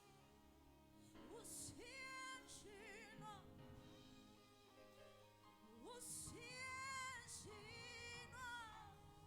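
Faint worship singing: a single voice with strong vibrato sings two phrases, each starting with an upward swoop, over steady held instrumental chords.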